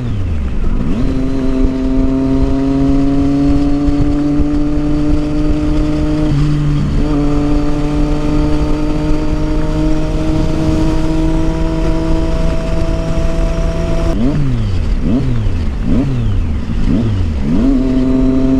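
Triumph Street Triple 675's inline-three engine running through a loud Yoshimura aftermarket exhaust at steady cruising revs. There is a brief dip in revs about six seconds in, and a run of quick rev drops and rises a few seconds before the end.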